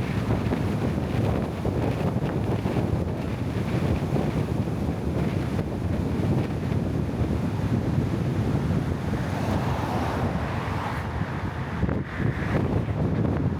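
Wind buffeting the microphone: a steady low rush of noise with no distinct events.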